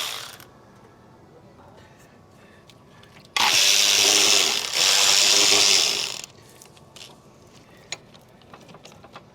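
A power tool runs for about three seconds, with a brief dip in the middle, backing out a bolt of about 13 mm on an intake manifold bracket. A few light clicks follow.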